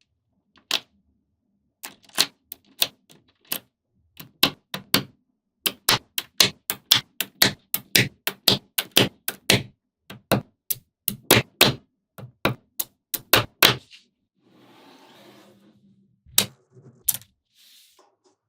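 Small neodymium magnetic balls clicking together one after another as they are snapped onto a model, in a fast irregular run of sharp clicks, then a brief soft rustle and a few more clicks near the end.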